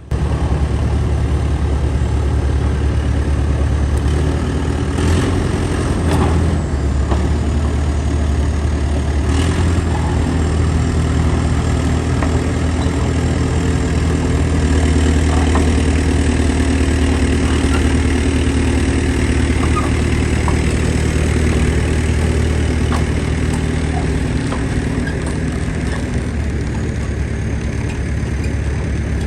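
A heavy vehicle engine idling steadily, with a few knocks about five, six and nine seconds in.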